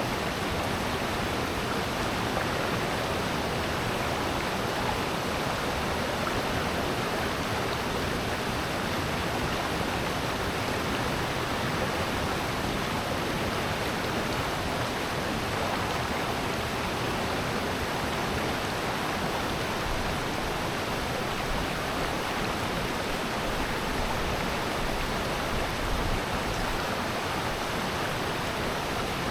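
Water rushing steadily down a rocky valley stream, an unbroken wash of noise without a pause or change.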